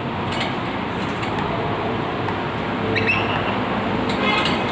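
A pet parrot calling: a short rising note about three seconds in and a brief squawk near the end, over a steady background of traffic noise.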